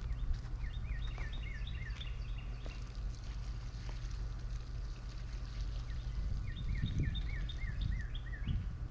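A songbird sings two runs of about seven quick repeated notes, one just after the start and one near the end, over a steady low rumble.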